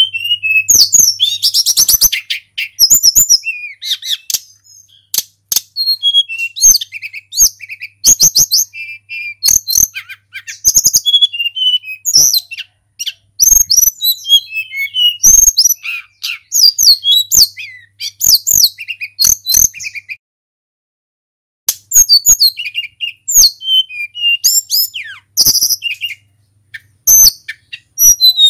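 Tledekan gunung songbird singing a long run of fast, varied high-pitched whistled and trilled phrases in bursts, with short pauses and one longer break about two-thirds of the way through.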